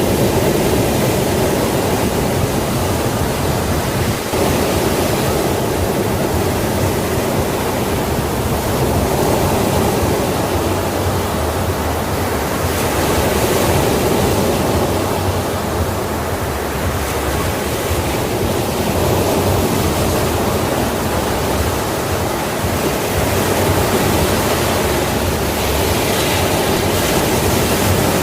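Sea waves washing onto a shore: a continuous rush of surf that swells and eases gently.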